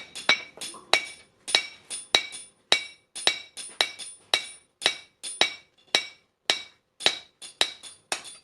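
Blacksmith's hand hammer striking steel on an anvil in a steady forging rhythm, about three blows a second. Each blow rings sharply, the usual sound of forging leaf-spring steel.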